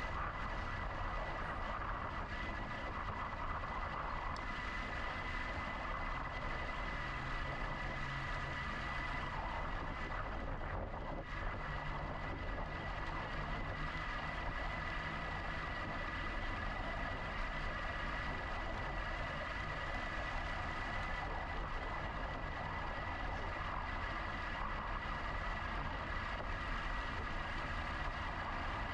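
Steady riding noise from a GoCycle GX electric bike: wind and road rumble with a steady high whine.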